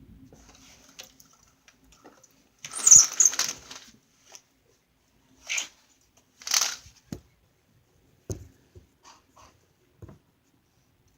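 Several short bursts of rustling noise, the loudest about three seconds in, followed by a few soft knocks.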